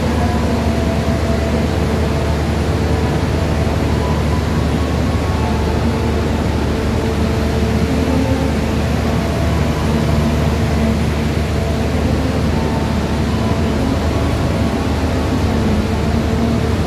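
Passenger train pulling slowly out past the platform: a steady, even drone with a low rumble and a few steady hums over it.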